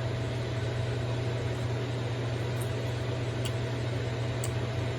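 Kitchen range hood extractor fan running with a steady hum and rush of air, with a couple of faint clicks in the second half.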